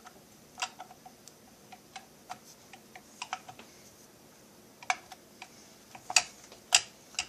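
Irregular light metallic clicks and taps of small screws and hand tools being handled while the crankcase is screwed together, with two louder clicks about six seconds in.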